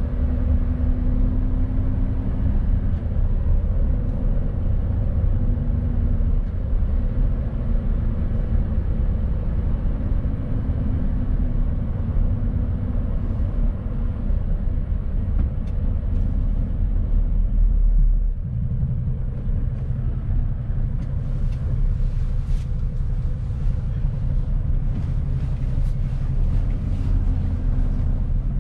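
Mercedes-Benz Actros truck driving under way, with the steady low drone of its diesel engine and the road noise. About eighteen seconds in the sound dips briefly and settles into a different steady engine note.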